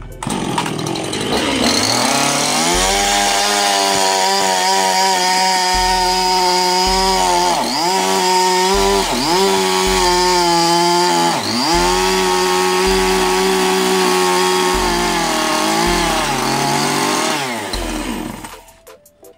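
Chainsaw revving up, then running at high speed while cutting wood, its pitch dipping sharply three times under load before it winds down near the end.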